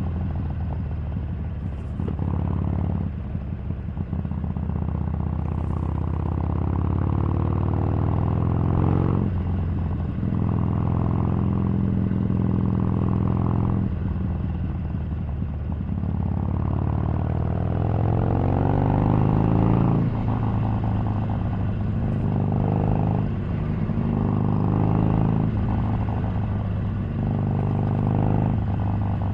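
Harley-Davidson 883 Sportster's air-cooled V-twin running on the road. The engine note climbs in long rises and drops sharply several times, the revs falling with each gear change.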